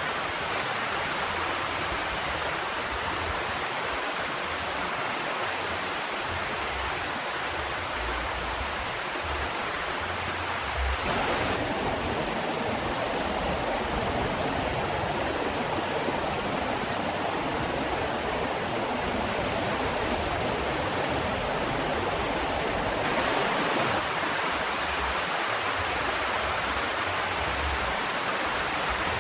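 Heavy rain falling in a steady, dense hiss. Its tone changes abruptly twice.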